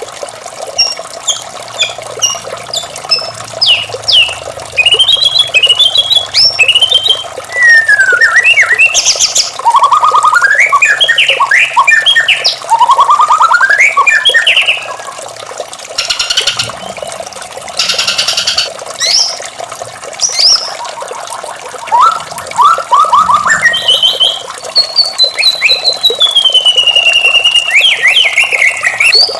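White-rumped shama singing a long, varied song of rapid whistled sweeps, trills and harsh notes, with a long falling whistle near the end.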